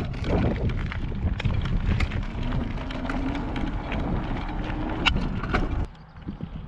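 Wind buffeting the microphone of a camera on a moving electric bike, with scattered knocks and rattles and a faint rising whine in the middle; the wind noise drops away sharply near the end.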